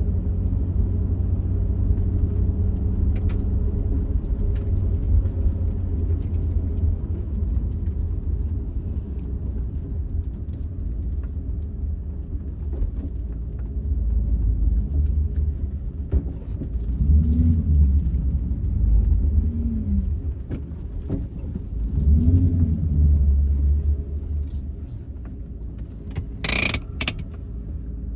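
A 2002 Pontiac Trans Am WS6's 5.7-litre LS1 V8 running with a steady low rumble, its pitch rising and falling briefly three times past the middle. A short sharp noise comes near the end.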